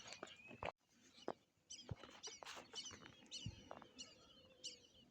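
Faint, short high chirps repeating about twice a second from about two seconds in, typical of a small bird calling, with a few soft clicks and knocks before them.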